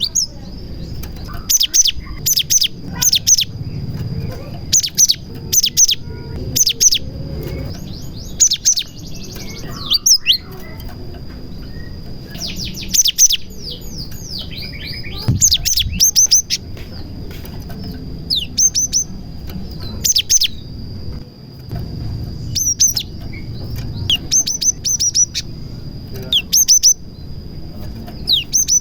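Cinereous tit (gelatik batu) singing loudly in quick groups of sharp, high, downslurred notes, its song mixed with learned prinia (prenjak) calls. A faint steady high whine runs underneath.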